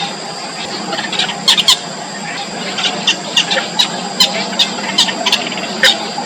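Yellow bittern chicks in the nest giving short squeaky calls, a dozen or more at irregular intervals, over a steady high background tone.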